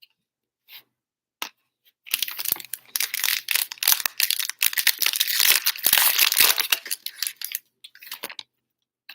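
Wrapper of a 2020 Playbook football trading card pack being torn open and crinkled, a dense crackling rustle that starts about two seconds in and stops shortly before the end.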